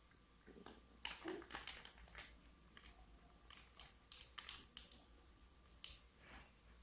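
Faint, scattered light clicks and rustling of hands handling utensils and packaging while frosting a cupcake, with sharper clicks about a second in, around four seconds and near six seconds.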